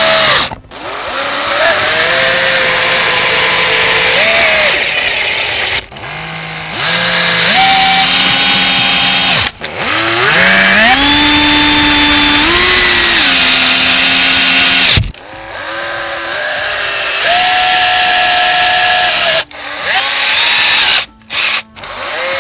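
Cordless drill-driver driving screws into the wood of a pallet to fasten castor wheels. It runs in about five bursts of a few seconds each. The motor pitch rises as each burst starts, then steps up and down as the screw takes load, with short pauses between screws.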